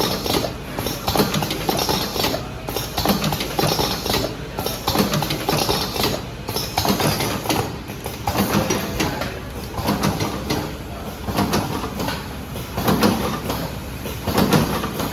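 Automatic cartoning machine running, a continuous clatter of repeated mechanical clacks as it forms and fills paper cartons.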